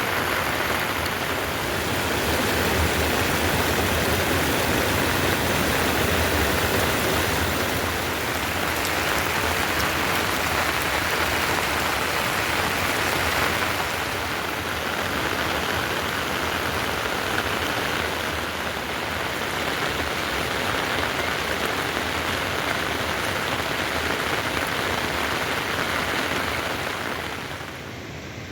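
Heavy rain falling: a loud, steady hiss of rain on surfaces that drops abruptly to a quieter level near the end.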